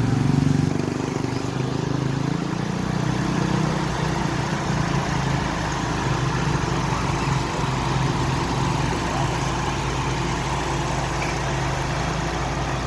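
Mitsubishi Galant V6 engine idling steadily with an even, unbroken hum.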